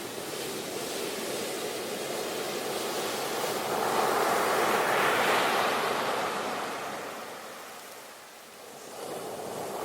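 Ocean waves breaking on a shore: a wave swells and crashes about five seconds in, washes out and fades, and the next one starts to build near the end.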